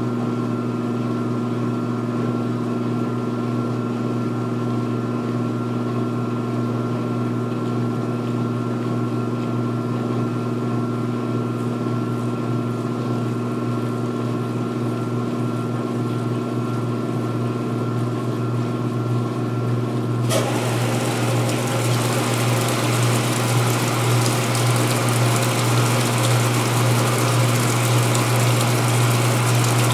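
2016 Speed Queen belt-drive washing machine in its rinse spin-drain, with the motor and drain pump running in a steady hum. About twenty seconds in, a hissing rush starts suddenly and continues over the hum.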